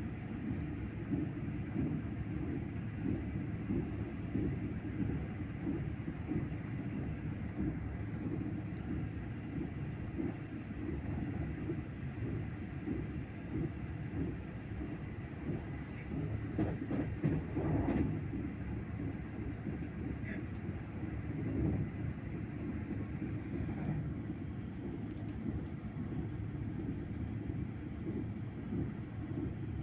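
Train running along the track: a steady low rumble of wheels on rails, with a short run of clicks and knocks about two-thirds of the way through.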